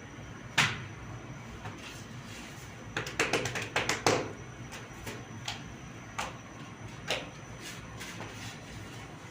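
A series of sharp knocks and taps on a hard surface: one about half a second in, a quick run of several about three seconds in, then a few single ones spaced about a second apart.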